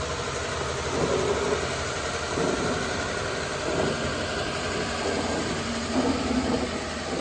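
Engine of a 1959 Chevy truck running as the old truck drives, swelling in level several times, with something grinding that sounds horrible.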